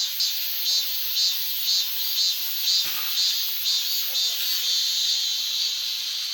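Night insects chirping in a steady rhythm, about two pulses a second, over a constant hiss. A single low thump comes about three seconds in.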